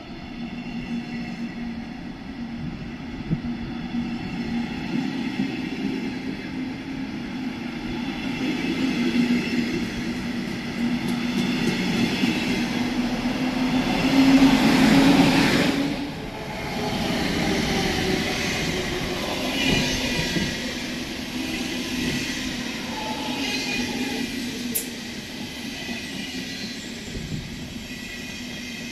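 Electric regional train with double-deck coaches moving along the platform: a steady electric drive hum with a whine above it and the rumble of wheels on rails, building to its loudest just before halfway. The sound breaks off suddenly about halfway, and a quieter train running sound carries on after it.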